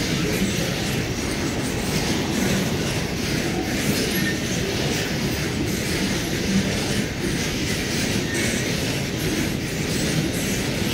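Loaded container flat wagons of a long freight train rolling past close by: a steady, loud noise of steel wheels running on the rails.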